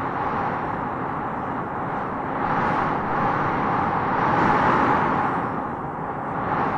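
Wind blowing steadily, a rushing noise that swells about two-thirds of the way through and eases again near the end.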